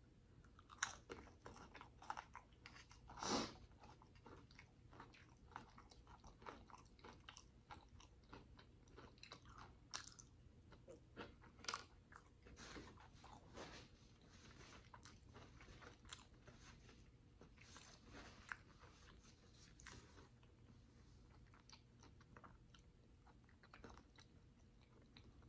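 Faint close-miked chewing of a piece of fried food: soft crunches and wet mouth clicks scattered irregularly, with the loudest crunch about three seconds in.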